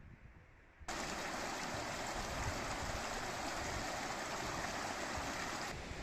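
Steady rushing of flowing water, cutting in suddenly about a second in and easing slightly near the end.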